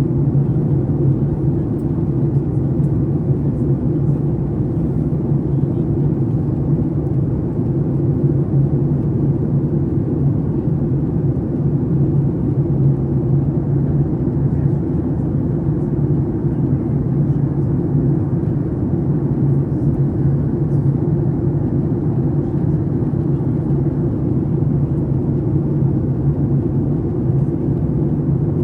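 Steady cabin drone inside a Boeing 737 MAX 8 in flight: the CFM LEAP-1B engines and the airflow over the fuselage make an even low rumble that holds without change.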